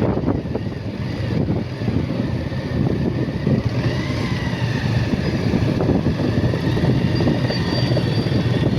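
Motorcycle on the move: the engine running steadily under wind rush on the microphone, with a faint wavering high whine joining about halfway through.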